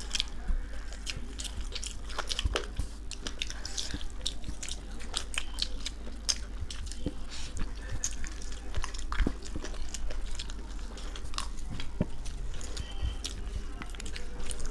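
Close-up eating sounds: a person chewing and biting mouthfuls of chicken biryani, with many irregular wet smacks and small clicks, over a steady low hum.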